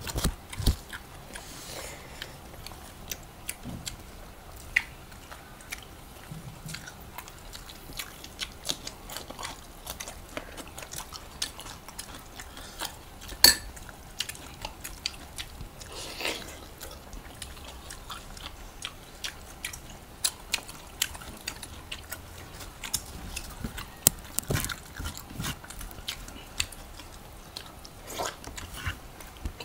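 People eating rice and spicy chicken adobo by hand, heard up close: chewing and mouth smacks with many short, sharp clicks scattered throughout.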